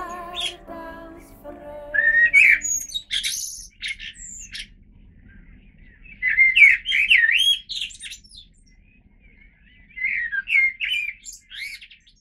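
Music fades out over the first two seconds. A songbird then sings three short, quick warbling phrases, a few seconds apart.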